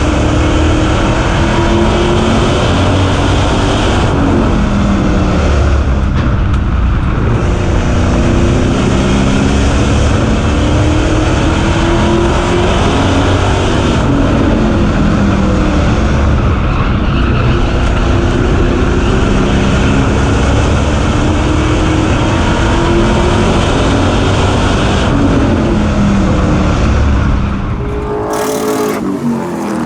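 Super Stock race car engine running hard at speed on an asphalt oval, its pitch climbing and falling in long repeated sweeps as it accelerates down the straights and lifts for the turns. The sound drops away abruptly near the end.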